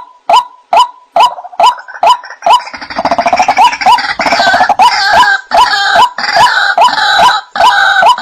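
White-breasted waterhen calling: a steady run of 'wak' notes, a little over two a second. About a second in, harsher overlapping croaking calls join and build into a dense, rapid chorus, then settle into a rhythmic, layered call pattern near the end.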